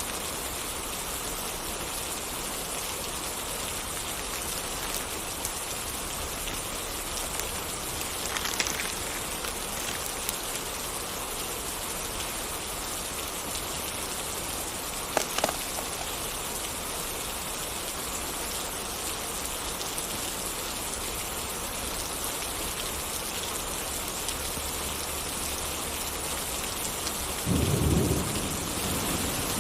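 Steady rain falling, with a short low rumble of thunder near the end. A couple of brief sharp pops come in between, about a third and halfway in.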